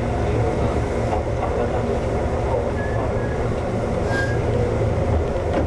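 Konan Railway 7000-series electric train (former Tokyu 7000 series) running along the line: a steady rumble of wheels on rail, with a couple of faint short high tones a few seconds in.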